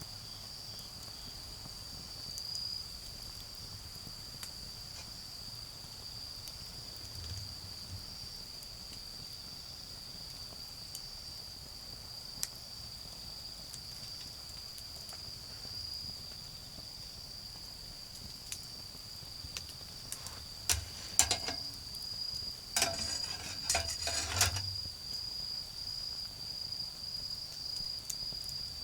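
Autumn insects chirring steadily at one high pitch. About twenty seconds in, a short cluster of clicks and light clinks lasting a few seconds.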